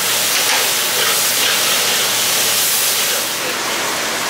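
Chopped onion frying in hot oil in a karahi over a gas burner: a steady, even sizzle.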